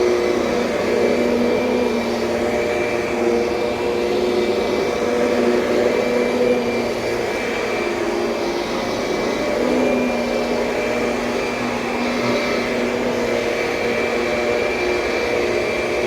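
2007 Kirby Sentria upright vacuum cleaner running steadily, its motor hum holding a few steady tones that shift slightly in pitch now and then.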